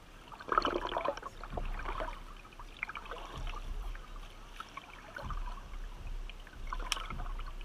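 River water splashing and trickling around a kayak, with a few louder splashes, one about half a second in and another near the end.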